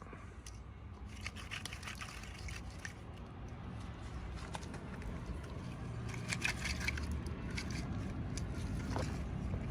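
Hands handling and opening miniature-toy packaging: bursts of crinkling and small clicks, in a cluster about a second in and a denser one about six seconds in, over a steady low hum.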